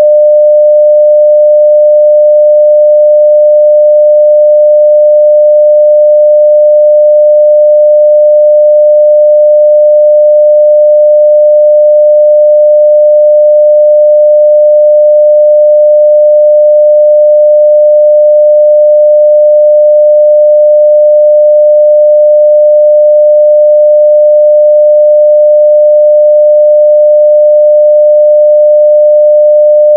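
Pure 600 Hz sine-wave test tone at full level, one unwavering pitch held without a break.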